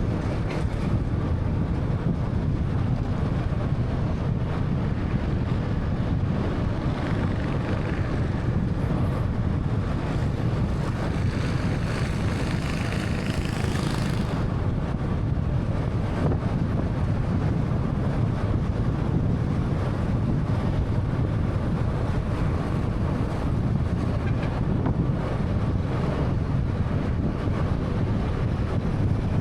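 Road noise of a 1.3-litre 2013 Honda Fit on the move: a steady low tyre and road rumble. Near the middle a hiss builds over a few seconds, then cuts off suddenly.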